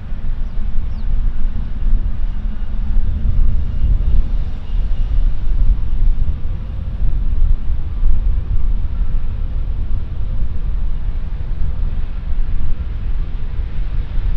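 Jet airliner engine noise: a continuous low rumble with a faint high whine above it, rising and falling in level without stopping.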